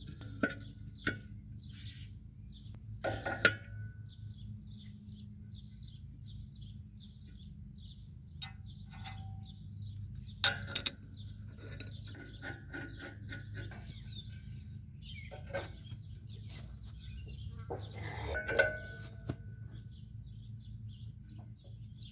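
Hand tools clanking and knocking on the steel of a disc harrow gang during blade-nut removal, in scattered sharp metallic hits, over a steady low hum. Small birds chirp faintly in the background.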